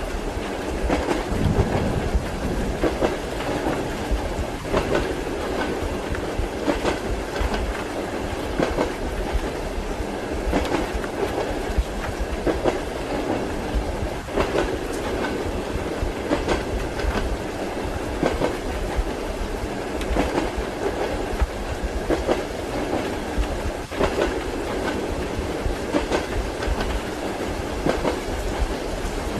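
Train wheels clattering over rail joints, clicks every second or two over a steady rolling rumble, as heard from inside a passenger compartment.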